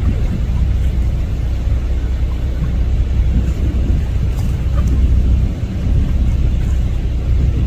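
Loud, steady low rumble of a tour boat under way, its engine and the wind running without a break.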